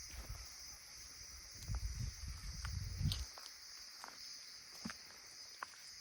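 Footsteps on a mountain trail over a steady, high-pitched chirring of insects, with a low rumble through the first half that stops a little after three seconds.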